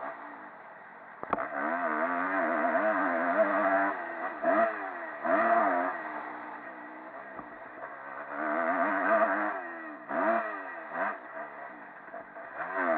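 Motocross dirt bike engine revving up and falling off again and again as the throttle is opened and closed through a lap. A sharp knock comes about a second in, and the engine is loudest through the middle and again near the end.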